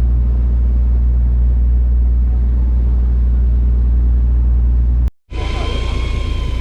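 Fishing boat's engine running with a steady low drone. About five seconds in it cuts off abruptly, and a hissier engine-and-water noise with a steady high whine takes over.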